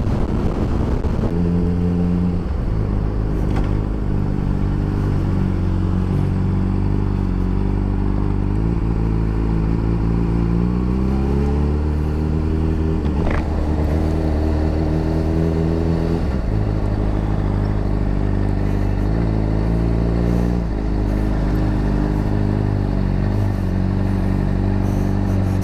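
2007 Honda CBR600RR's inline-four engine running as the bike is ridden, its pitch climbing steadily from about a third of the way in, then dropping suddenly a few seconds later and holding steady.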